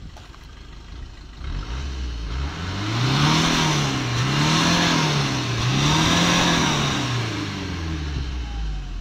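Maruti Baleno 1.3-litre diesel engine, high-mileage at over 100,000 km, revved three times from idle with the throttle blipped, then dropping back to idle. Heard at the exhaust tailpipe.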